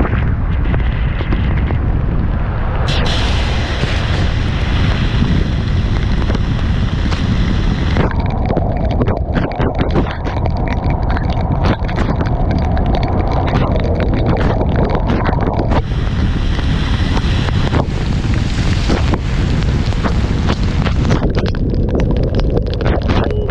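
Heavy wind buffeting the microphone of an action camera on a moving motorcycle, with the bike's engine running underneath.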